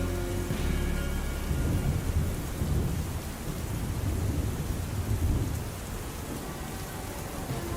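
Thunder rumbling low and rolling over steady rain, easing off after about five seconds while the rain goes on.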